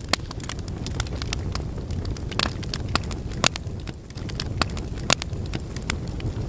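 Wood fire burning in a fireplace: a steady low rumble of flames with irregular sharp crackles and pops from the logs, a few louder snaps among them.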